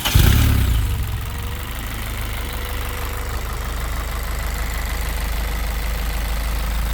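Exocet kit car's engine on a cold start: it fires right at the start and flares up briefly, then settles over the first second or two into a steady idle.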